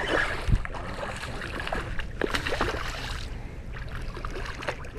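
Water splashing and sloshing around a small fishing boat, with a low knock about half a second in.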